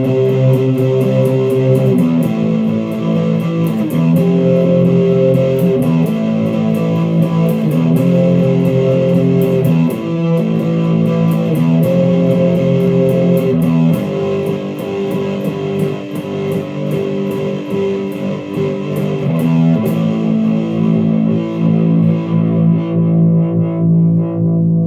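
Sire L7 Les Paul-style electric guitar played through the distorted (dirty) channel of a Fender Champion 100 amplifier: sustained chords that change about every two seconds, thinning out near the end.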